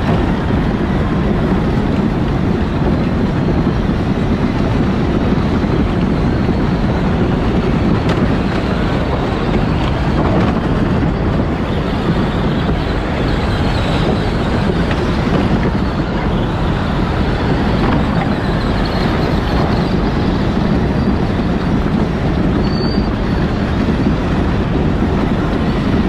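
A Power Wheels ride-on toy car driving, heard from on board: a loud, steady running noise without a break.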